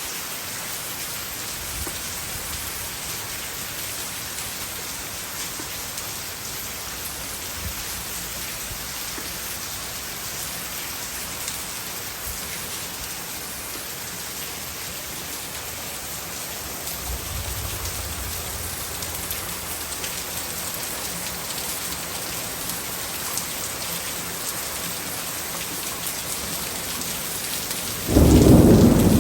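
Heavy tropical rain falling steadily, an even hiss. About a second before the end, a sudden loud low rumble of thunder breaks in.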